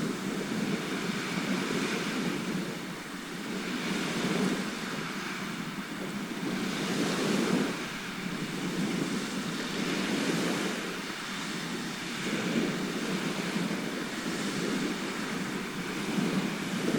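Sea surf: waves washing in a steady rush that swells and fades every few seconds.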